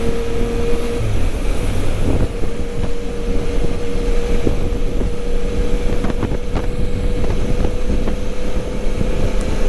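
Yamaha Tracer 900 GT's three-cylinder engine and road noise while riding, with wind noise on the microphone and a steady tone held throughout.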